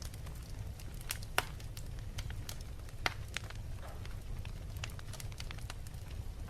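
Wood fire crackling in a fireplace: irregular sharp pops and snaps over a steady low rumble, with two louder pops about a second and a half and three seconds in.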